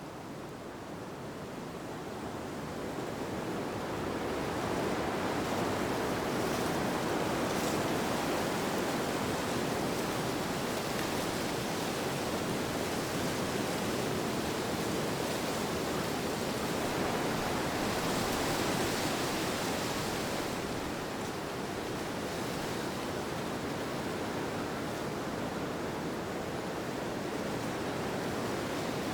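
Steady rushing wind, swelling over the first few seconds, easing a little past the middle, then holding.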